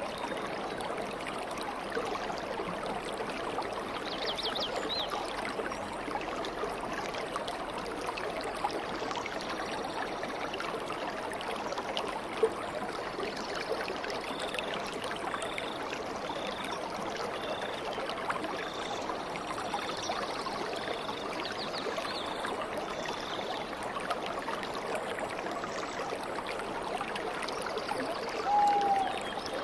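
Stream water flowing and babbling steadily. Over it, birds call: a few high chirps early, then a series of about eight short, evenly spaced high notes, and a short, louder call near the end.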